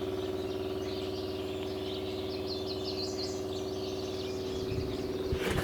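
An engine running steadily at idle, with birds chirping over it at times. About five seconds in the sound shifts and a sharp knock is heard.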